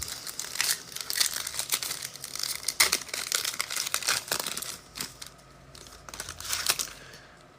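Plastic or foil trading-card pack wrapper crinkling and tearing as it is handled and opened, a dense crackle for about five seconds that then dies down, with one short crinkle near the end.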